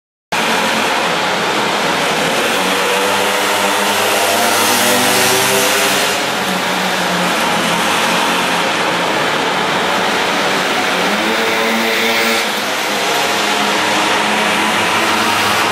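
Minibike engines running and revving, their pitch rising and falling, over a loud rushing hiss. The sound cuts in suddenly just after the start.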